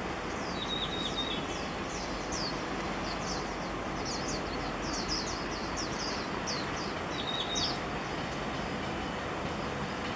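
Freight train rolling slowly past at a distance, a steady low rumble. Over it, small birds chirp repeatedly in quick falling notes, with short whistled notes near the start and again after about seven seconds.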